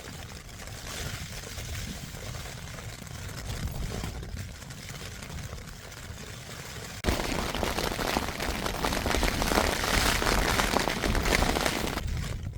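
Storm wind and heavy rain on the Hilleberg Jannu tent, heard from inside: rain patters on the flysheet while gusts buffet the fabric. About seven seconds in it suddenly turns much louder and rougher.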